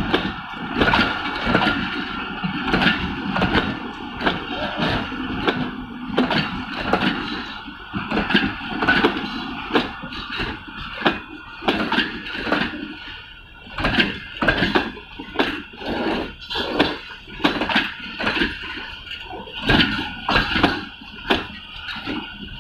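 Passenger train coaches rolling past, their wheels clattering over the rail joints in a steady run of knocks, about two a second, over a rolling rumble.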